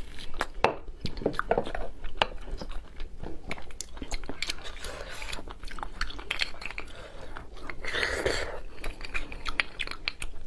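Close-miked mukbang eating sounds: biting into and chewing roasted meat and marrow on beef bones, with many irregular wet clicks and smacks, and light clinks of a metal utensil.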